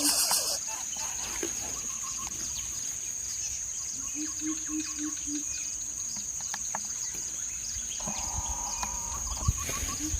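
Outdoor ambience of birds chirping over a steady, high-pitched insect drone. About four seconds in comes a short series of five low hoots.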